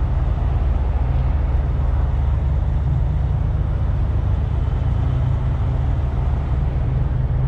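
Steady low rumble under an even wash of outdoor background noise, with no distinct events.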